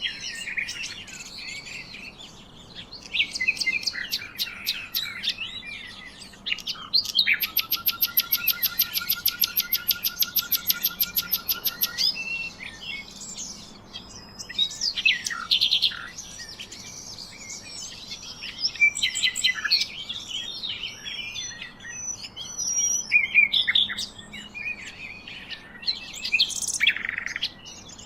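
Several songbirds chirping and singing over one another, with many short whistled and warbled notes. From about seven seconds in, a fast, even trill of repeated notes runs for about five seconds.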